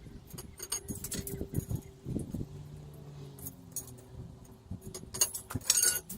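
Light metallic clinks and knocks from steel box section and tools being handled, with one sharper clank near the end.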